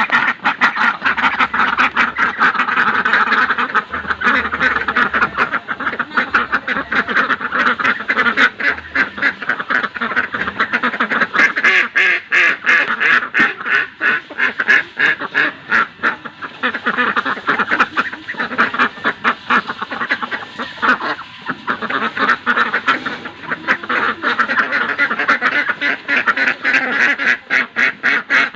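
Domestic Indian desi ducks quacking continuously, many short quacks in quick succession.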